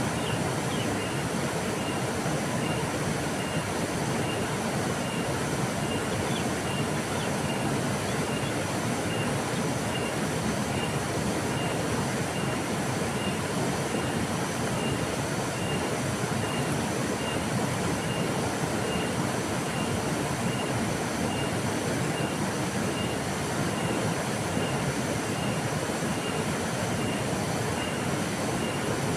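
River water flowing steadily. A faint high chirp repeats about once a second.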